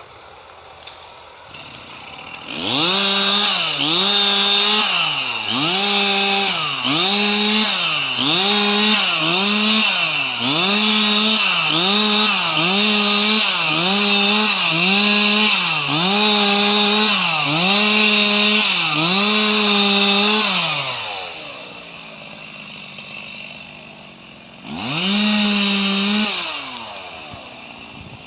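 Two-stroke chainsaw revved up and let back repeatedly, about once a second, with a high-pitched engine note. Near the end it drops to idle for a few seconds before being revved twice more.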